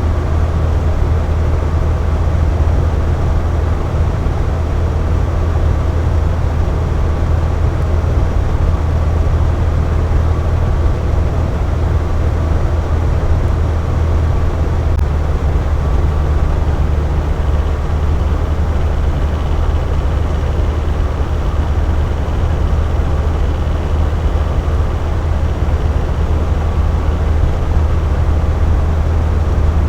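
Box fan running steadily, a constant low hum with the rush of moving air.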